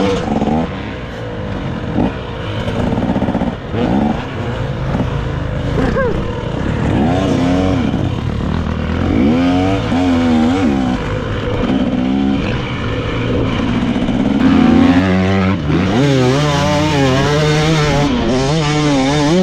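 Dirt bike engine revving up and down under constant throttle changes, its pitch rising and falling in repeated sweeps, faster and higher over the last few seconds.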